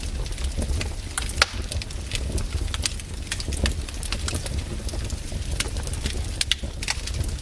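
Wood campfire crackling and popping in irregular sharp snaps over a steady low rumble, with louder pops about a second and a half in and again near the end.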